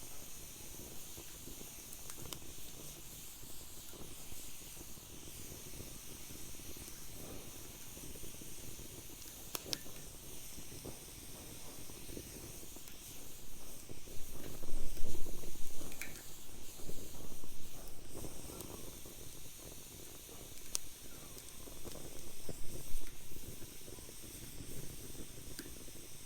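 Wood fire burning in a fire pit: a steady hiss with a few sharp crackling pops, and louder low surges about midway and again near the end.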